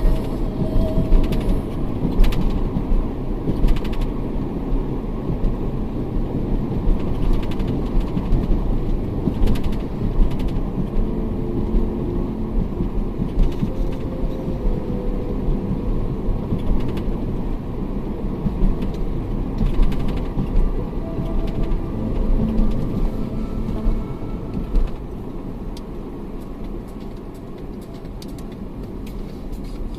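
Car driving along a road: a steady low rumble of engine and tyre noise, with occasional light knocks, easing off a little near the end.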